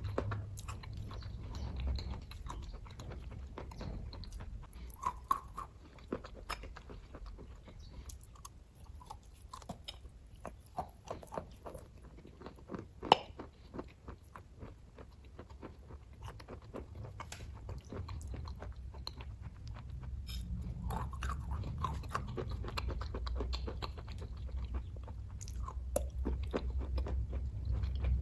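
A person chewing and biting kaju katli (cashew fudge), with many small irregular mouth clicks and one sharp click about 13 seconds in.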